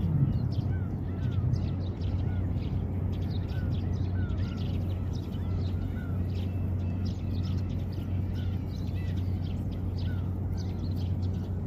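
Eurasian tree sparrows chirping: many short, quick chirps one after another, over a steady low hum.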